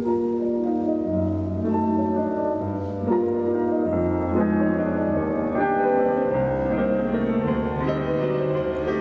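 Solo classical piano music playing continuously, a flowing run of changing notes.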